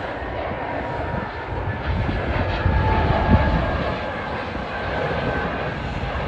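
Jet airliner engines running, a steady rumble with a faint high whine over it.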